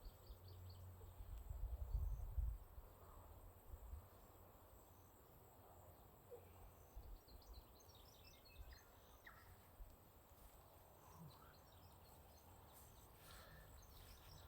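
Quiet natural ambience with a few faint, short bird chirps, and a low rumble about two seconds in.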